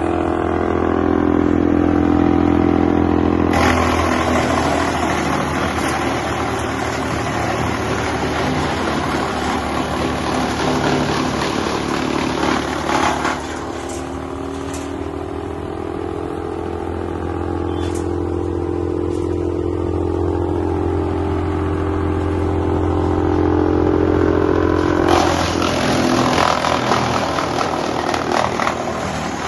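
A wood chipper's engine running at a steady pitch. There are two long stretches of loud, rough chipping noise, one from a few seconds in to about halfway and another near the end, with a few sharp clacks in the quieter stretch between them.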